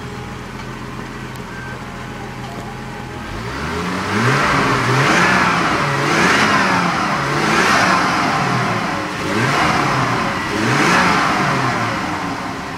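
Toyota 7M-GTE turbocharged inline-six, freshly rebuilt and running on its first start: idling steadily, then revved up and down about five times, each rev rising and falling smoothly, settling back to idle near the end.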